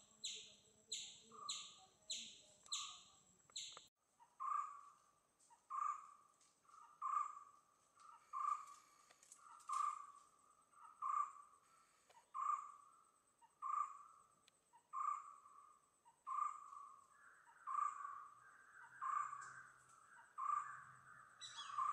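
Bird calls: a quick series of high chirps, about two a second, stops abruptly about four seconds in. After that a lower single note repeats steadily about once a second, and a faint low hum comes in near the end.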